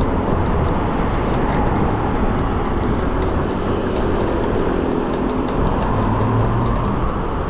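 Steady rush of wind and city traffic noise, heard while riding an electric bicycle along a street.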